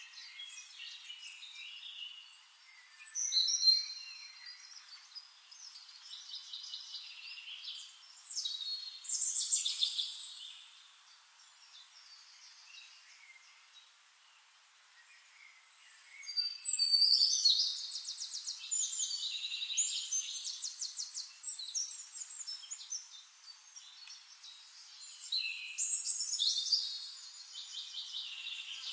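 Songbirds singing: bursts of high chirping phrases and rapid trills every few seconds, with quieter stretches in between.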